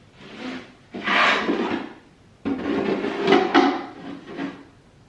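The drawer of a small storage shelf unit sliding and rubbing in and out in three bursts, the last and longest about two seconds.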